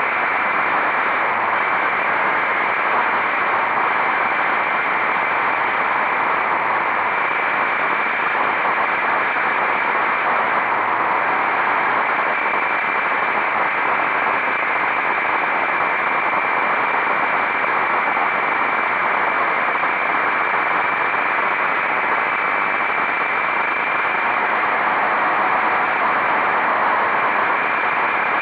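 Steady wind rush on the microphone of a motorcycle riding at speed, an even roar with no change in pitch and no clear engine note.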